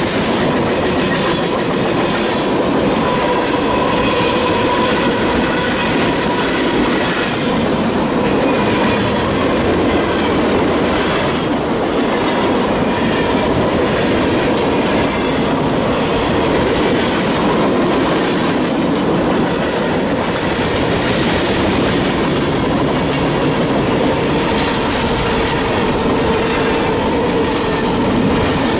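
Cars of a mixed freight train (tank cars, covered hoppers and boxcars) rolling past close by: steel wheels running on the rails, steady and loud, with a faint steady ringing tone beneath.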